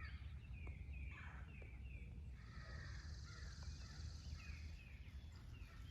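Wild birds calling: a run of short, harsh, falling calls, two or three a second, with a higher buzzy trill for about two seconds in the middle.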